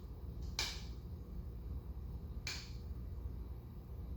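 Two short sharp clicks about two seconds apart, over a low steady hum: the steps of a capacitor speed control being switched on a cast ceiling fan whose motor, fitted with new bearings, has not yet started turning.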